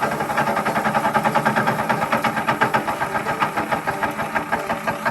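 DR Premier 300 wood chipper-shredder's engine running loudly as branches are fed through it, with a fast, even pulsing.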